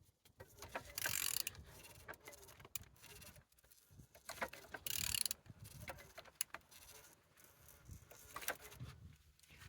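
Used YS12NYU engine being turned over by hand, with irregular mechanical clicking and a couple of short rasping bursts. It turns freely, taken as a sign that the engine is not seized.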